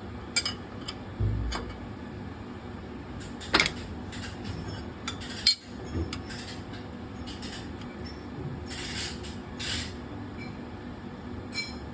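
Spanners and steel fittings clinking and knocking irregularly as nuts on a fuel pump linkage are worked by hand, with a dull thump about a second in and two sharper metallic clanks near the middle, over a steady background hum.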